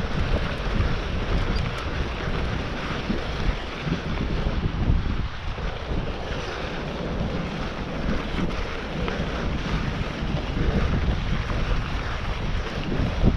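Wind buffeting the microphone of a mountain biker riding downhill, a steady rushing rumble with no letup.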